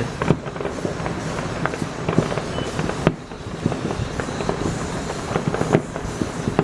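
Aerial fireworks bursting in quick, irregular succession: a dense run of sharp bangs and crackles, a few louder reports standing out, about three seconds in and again near the end.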